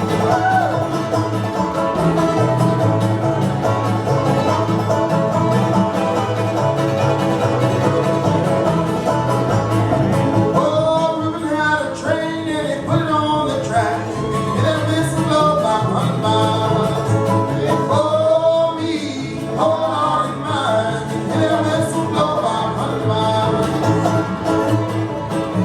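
Acoustic Cajun and old-time string band playing a tune live, with voices singing from about ten seconds in.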